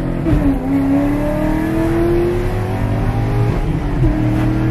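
Car engine under way, heard from inside the cabin, its note climbing slowly as the car gathers speed, then wavering briefly about four seconds in before holding steady.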